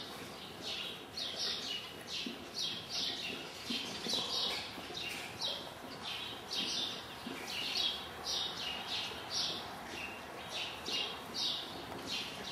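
Small birds chirping over and over, short high chirps that fall in pitch, about two a second, over the soft thud of a pony's hooves in the footing.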